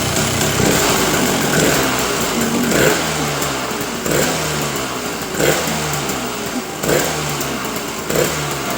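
Aprilia AF1 125's Rotax 123 single-cylinder two-stroke engine running and being blipped on the throttle over and over, roughly every second and a half, the revs falling back after each blip.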